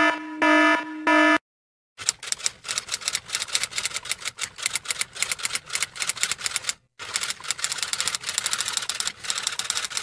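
An alarm sounds three short repeated tones at the start. After a brief silence, a typewriter clatters with fast, uneven key strikes, pausing once for a moment about seven seconds in.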